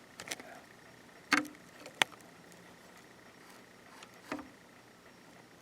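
A few separate clicks and light knocks, spaced irregularly over several seconds, from the pattern-selector mechanism of a Janome ME4014 sewing machine being turned back through its steps.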